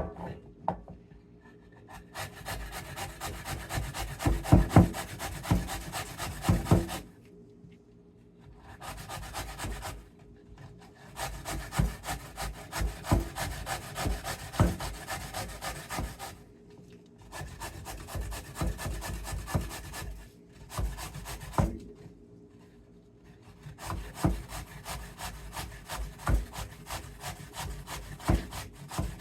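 A turnip being grated: rapid, rhythmic rasping strokes of the vegetable against the grater, coming in several runs with short pauses between them.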